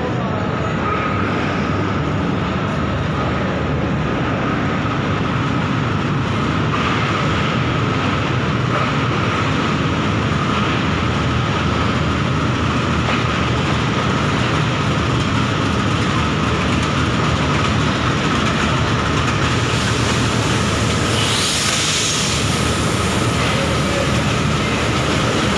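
A diesel-hauled passenger train running slowly into a station: the steady sound of the locomotive and the coaches' wheels rolling over the rails, going on without a break.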